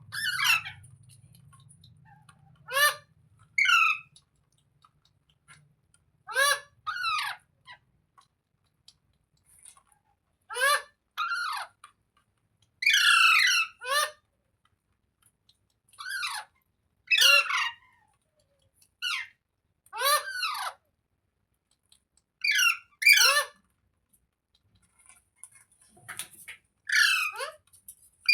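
Green ringneck parrot giving short, harsh squawking calls, mostly in quick pairs, repeated every few seconds.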